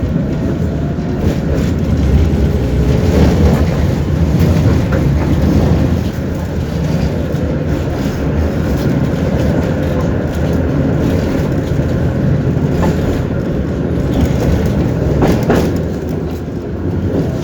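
Tram in motion heard from inside the passenger car: a steady rumble of wheels on rails and running gear, with a few sharp clacks over rail joints, the clearest about three seconds in and near the end.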